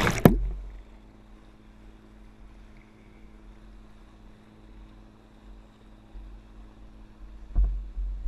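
Steady low hum of a motorboat engine, with a loud brief rush of water or wind noise right at the start and again near the end.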